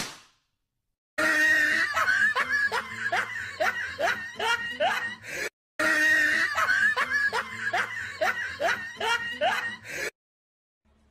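A person laughing in quick giggling bursts, each falling in pitch; after a short break about halfway through, the same stretch of laughter is heard again.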